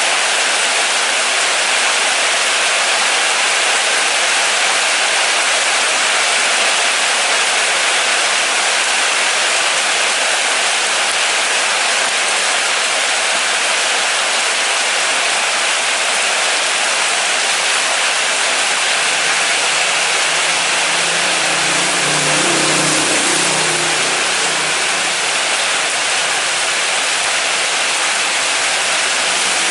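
Steady, loud rain falling. About two-thirds of the way through, a vehicle's engine rises and fades beneath the rain as it passes.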